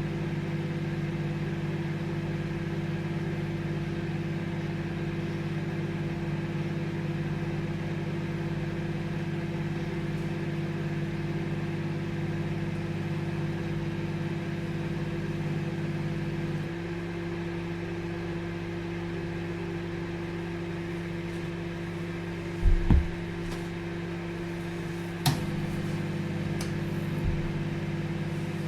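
Microwave oven running with a steady hum. About 17 s in the hum changes tone, two short low thumps come near 23 s, and a sharp click about 25 s in is followed by another shift in the hum.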